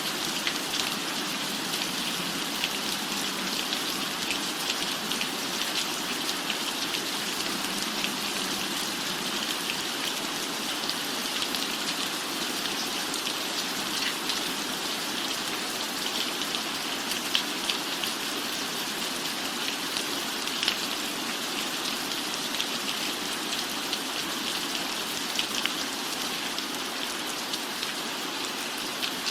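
Steady rain falling on a roof: an even hiss of rainfall with many scattered sharp drop ticks.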